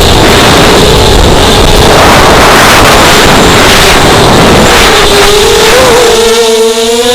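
A ZMR 250 racing quadcopter's motors and propellers whining in flight under a loud rushing noise. About six seconds in the rushing falls away and the motor whine stands out clearly, its pitch wavering slightly.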